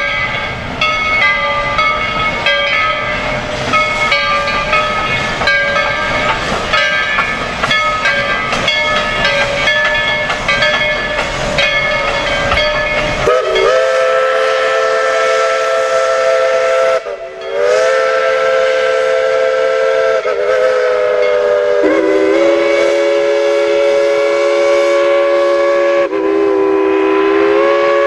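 Steam locomotive working with hissing steam and clatter. About 13 seconds in, a chime steam whistle sounds a long multi-note blast that breaks briefly around 17 seconds, then is held to the end with slight shifts in pitch.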